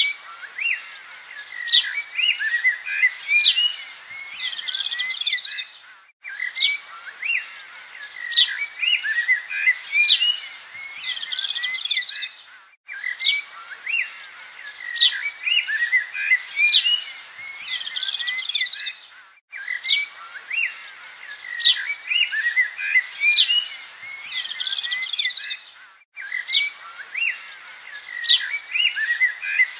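Birds chirping and singing, with quick rising and falling notes. It is a short birdsong recording that repeats about every six and a half seconds, with a brief drop-out between repeats.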